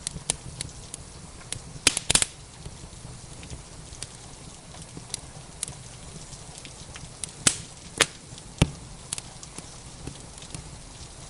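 Wood fire crackling with scattered sharp pops, the loudest a cluster about two seconds in and three more spread over a second near the end, over a steady hiss of rain.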